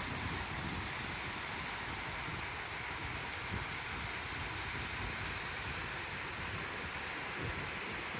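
Moving water making a steady, even rushing noise, with one brief tick about three and a half seconds in.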